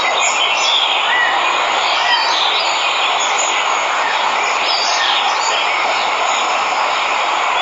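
Waterfall rushing steadily, with birds chirping now and then over the sound of the water.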